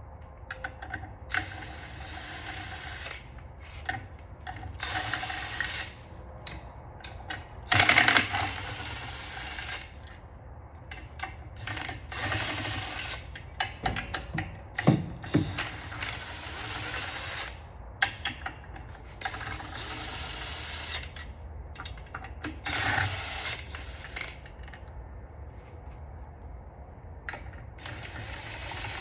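Hand tools working on a Honda F22C engine during teardown: irregular mechanical clicking and metal clatter in short bursts, with one louder burst about eight seconds in.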